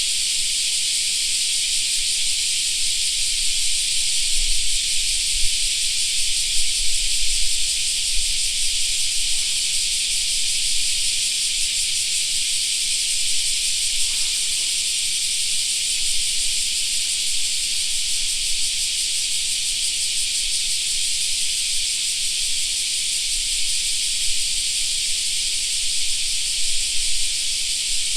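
Steady chorus of cicadas, a dense high shrill drone that never lets up.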